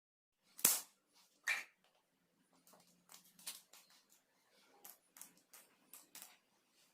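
Small hard plastic pieces being handled and knocked together. There is a sharp knock about half a second in and another about a second later, then a run of lighter clicks and taps.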